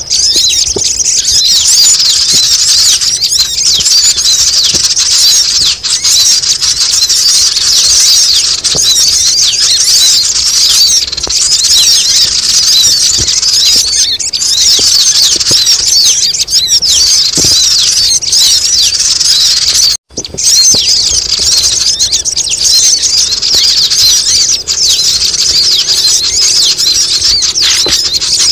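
Dense, noisy chorus of many birds squeaking and chattering at a high pitch, used as a sogon lure call. There is a brief break about twenty seconds in.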